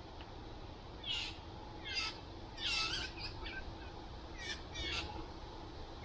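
A songbird calling repeatedly: about six short calls, each dropping in pitch, spread over a few seconds.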